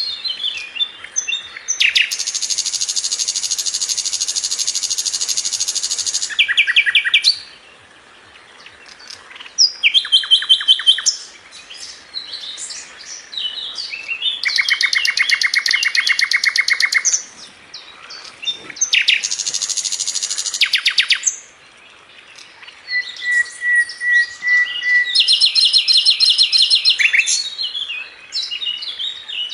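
Sikatan londo flycatcher singing continuously: rattling trills of very fast repeated notes, each lasting two to four seconds, alternate with shorter chirps, quick note runs and a thin level whistle. The song is dense and unbroken, the kind kept as a tutor recording for training caged songbirds.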